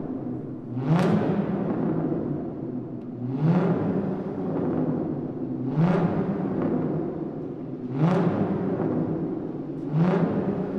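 Car engine being revved in a parking garage, the space adding echo: five throttle blips about two seconds apart, each rising sharply in pitch and then falling back toward idle.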